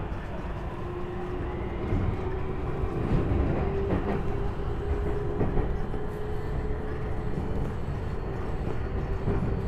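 Tokyu 5050 series 4000 subseries electric train under way, heard from inside the car: a steady rumble of wheels on rails with a steady whine through it, getting a little louder over the first few seconds.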